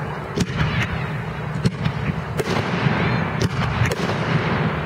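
Fireworks display: a continuous low rumble of shells going off, with sharp cracks and bangs every half second to a second.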